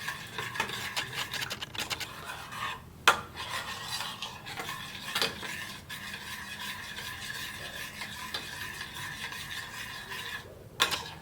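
A spoon stirring a thickening white sauce in a pot with continuous scraping, and a few sharper knocks against the pot, the loudest about three seconds in. The sauce is kept moving so it doesn't go lumpy.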